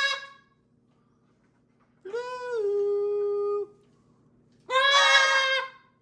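Pet parrots calling: a call trails off at the start, a long steady call about two seconds in drops in pitch partway through, and a louder call comes about five seconds in.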